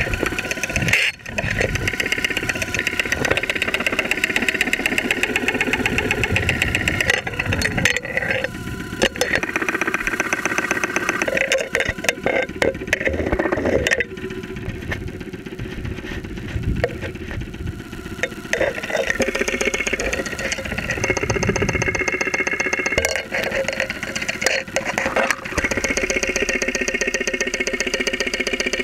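2001 Saturn SL2's 1.9-litre DOHC four-cylinder engine running, picked up through a mechanic's stethoscope microphone as a fast, steady knocking clatter. It is the loud engine noise that developed after the engine was run with very low oil. The level drops for a few seconds midway, then comes back.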